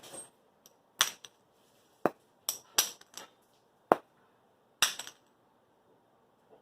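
A run of sharp knocks and clicks of hard parts being handled and set down, about eight over five seconds and uneven in spacing, then quiet.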